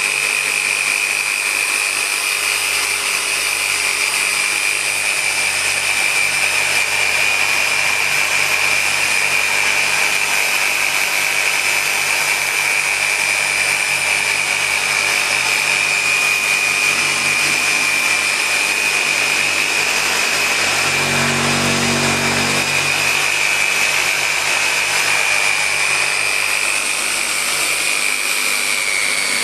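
Dynabrade random orbital polisher with a microfiber pad running steadily on car paint, a constant high whine over a hiss. The machine is polishing out 4000-grit wet-sanding marks.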